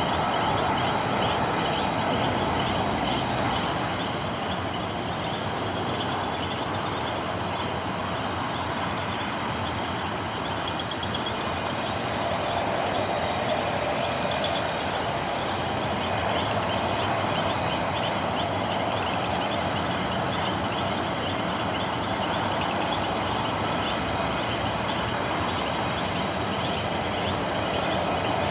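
Jet aircraft engines running with a steady noise, easing slightly a few seconds in and building again later.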